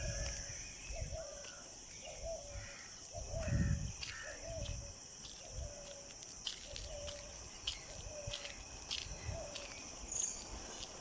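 Outdoor morning ambience: a steady high insect chirring, with a bird repeating a short call about once a second, and low rumbling swells that are loudest a few seconds in.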